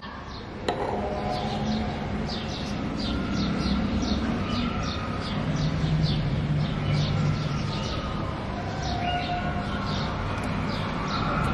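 Birds chirping in short, repeated falling calls, two or three a second, over a steady low rumble.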